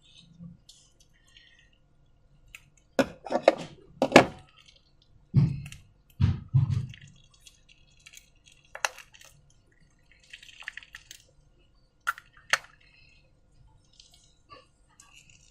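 Slime being handled: a run of wet, sticky squelches and pops in the first half, then a few sharp clicks and a soft rustle.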